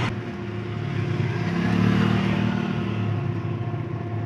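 Street traffic: a motor vehicle engine running past, growing louder about two seconds in and easing off again.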